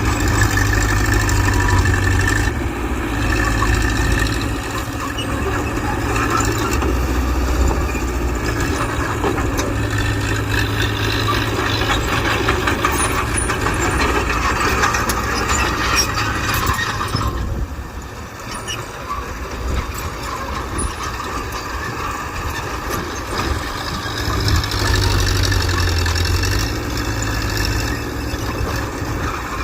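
Mitsubishi BD2G bulldozer's diesel engine working under changing load, with metallic clatter and squeaking mixed in. The engine eases off a little over halfway through, then builds again.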